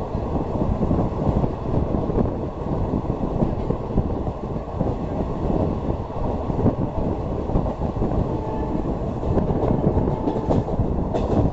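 Passenger train running on the track: a steady, dense rumble of wheels and carriages on the rails.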